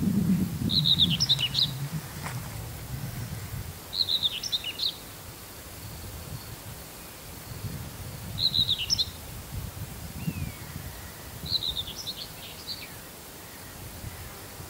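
A small songbird sings four short chirping phrases, about a second each, every three to four seconds, over a low rumble of wind noise that is strongest in the first two seconds.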